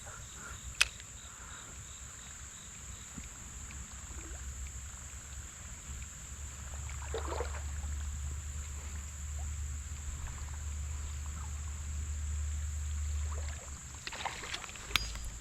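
Faint creek-side ambience: a steady high insect drone, with a low rumble that swells from about six seconds in and drops away near the end.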